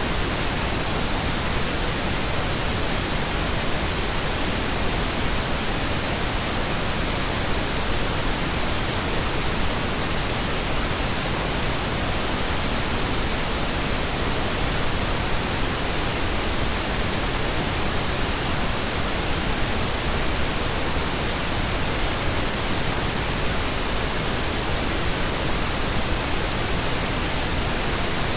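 Pink noise: a steady, even hiss with no changes.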